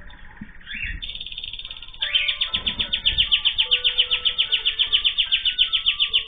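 A pet songbird trilling: a few soft chirps, then from about two seconds in a long, loud run of short high notes repeated about eight times a second.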